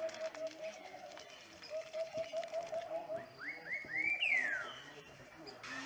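Birds calling: two rapid runs of low, evenly repeated notes, then a few short rising whistles and one longer whistle that falls in pitch.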